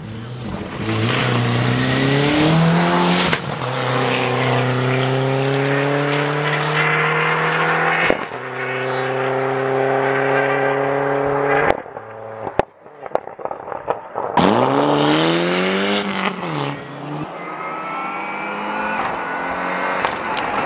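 Rally car engine accelerating hard up the stage, its pitch climbing and dropping back at each gear change every four to five seconds. About twelve seconds in the throttle lifts and a short run of sharp exhaust cracks follows, then the engine climbs hard again through the next gears.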